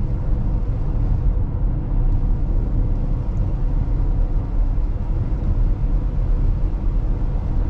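Steady low road and tyre rumble heard inside the cabin of a 2022 Tesla Model X cruising at highway speed on a wet road.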